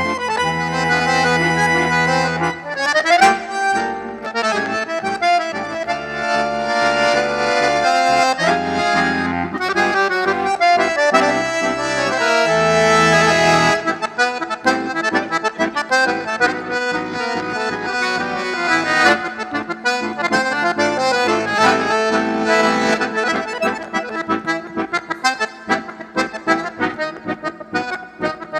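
Accordion (sanfona) playing a tune: for about the first half, sustained low bass notes sound under the chords and melody; then the low bass drops out and the melody moves in quicker, shorter notes.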